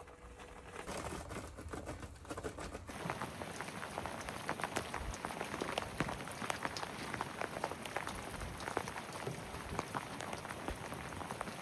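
Heavy rain pattering on a surface, with many separate drop hits over a steady hiss; the hits grow denser a few seconds in.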